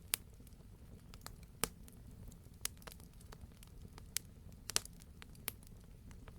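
Wood fire burning in a fireplace: a low steady rumble of the flames with scattered sharp crackles and pops, about half a dozen louder ones and a cluster of two or three near the end.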